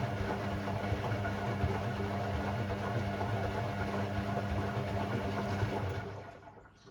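Hoover Sportswear 1300 washing machine running on its Delicate 15 programme: a steady motor hum that winds down and stops about six seconds in.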